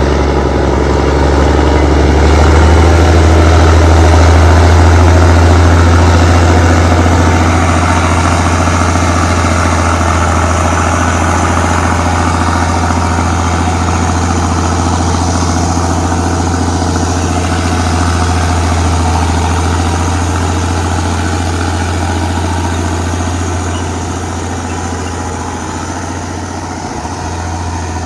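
Allis-Chalmers HD-21 crawler dozer's diesel engine running steadily with a deep, heavy drone, easing off a little near the end.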